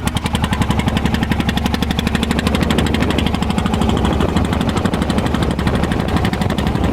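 Small boat's engine running steadily, with a fast, even chugging of about a dozen beats a second over a low hum.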